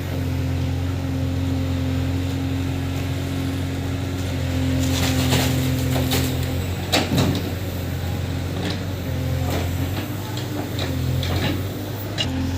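A diesel engine of heavy earth-moving machinery runs steadily at a low, even note while mud is being loaded, with a cluster of clanks and knocks about five to seven seconds in and a few scattered clicks after. The engine note drops briefly near the end.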